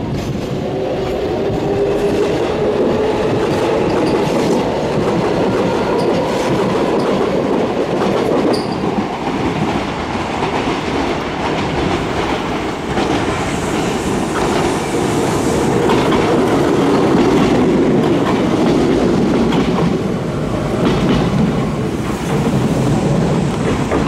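Kintetsu limited express electric train approaching and pulling into the station, its wheels clattering steadily over the rail joints and points as it turns onto the passing track.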